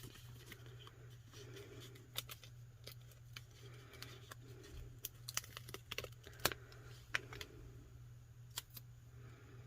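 A paper sticker being peeled off its backing and handled by hand: a run of small, sharp, irregular clicks and crackles, the sharpest about two-thirds of the way through.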